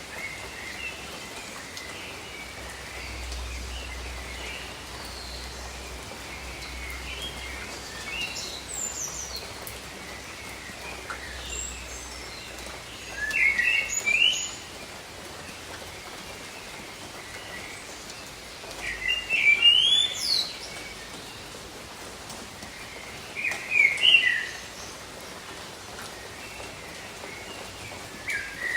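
Steady rain hiss with birds calling over it: short, sweeping chirps, louder in three bouts spread through the middle and end.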